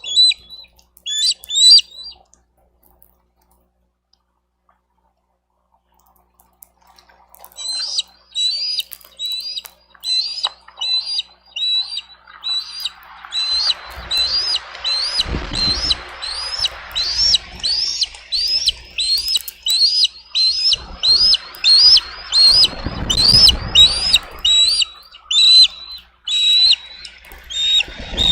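Bald eagle giving a long series of high, upward-slurred chirping calls, about two a second, after a few calls at the start and a short quiet spell. Gusts of wind rumble on the microphone twice under the calls.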